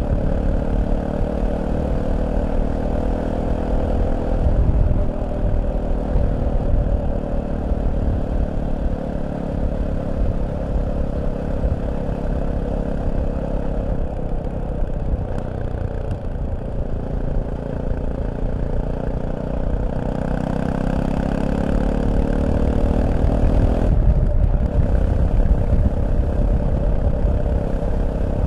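Fantic Caballero 500's single-cylinder four-stroke engine running, its pitch sinking slowly, then climbing again about two thirds of the way through, with a short break near the end before it holds steady.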